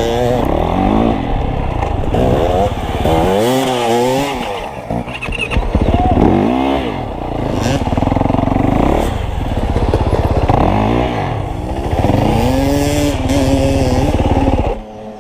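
Dirt bike engine revving up and dropping back over and over during a head-to-head race around barrels. The sound falls away sharply near the end.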